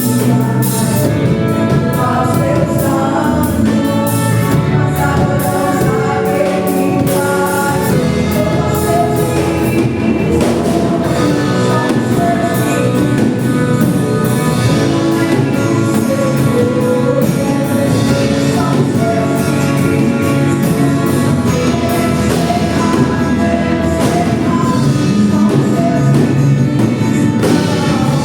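Worship group of several singers with a band and drum kit performing a Portuguese gospel praise song, the voices carrying a continuous melody over a steady drum beat.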